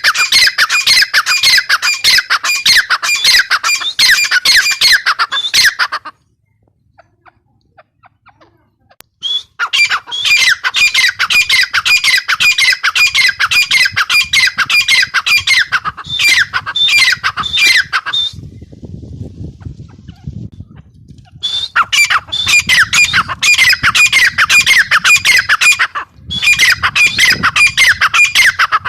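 Grey francolin (teetar), given as a female, calling: long bouts of rapid, harsh repeated notes, about five a second, broken by a few short pauses.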